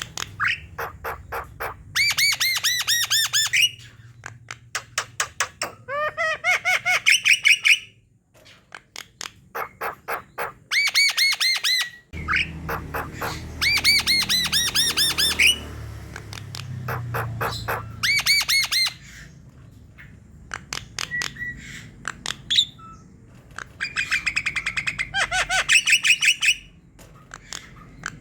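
Javan myna (jalak kebo) singing in bursts: fast runs of dry clicks and harsh, squawky notes repeated several times a second, with short pauses between the phrases.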